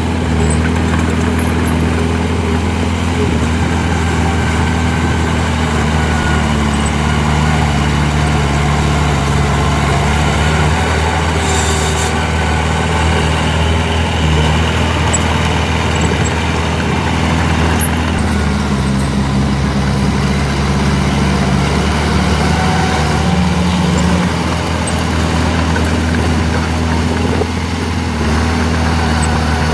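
Heavy diesel engines of earthmoving machinery running steadily under load, the engine note shifting about two-thirds of the way through, with one short hiss near the middle.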